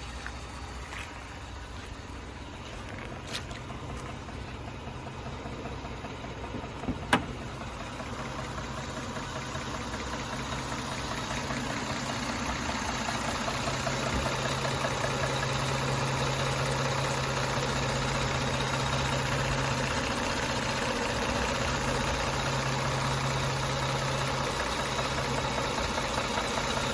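Toyota 1MZ-FE V6 engine running, with the Barracuda LPG gas injectors knocking in a fast, even ticking. One sharp click about seven seconds in is the loudest sound, and the sound grows louder over the first half, then holds steady.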